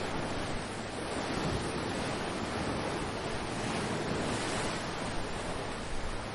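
Ocean waves washing onto the shore, a continuous surf with gentle rises and falls in loudness. Wind buffets the microphone.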